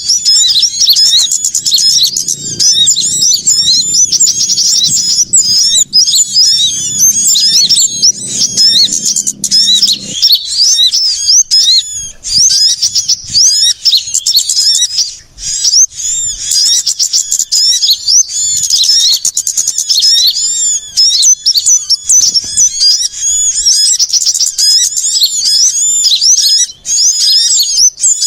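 Dense, busy chorus of small songbirds chirping and twittering rapidly and high-pitched, without a pause: a bird-lure (pikat) recording meant to draw small birds in. A faint low hum underneath stops abruptly about ten seconds in.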